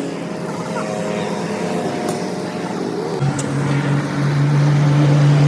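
Engine running steadily; about three seconds in it drops to a deeper, stronger note and gets a little louder.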